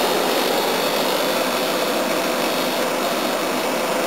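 Air conditioner running steadily, its fan rushing air over a compressor hum. The compressor is a bit noisy, which the owner puts down to the unit having sat on its back, with the oil still settling.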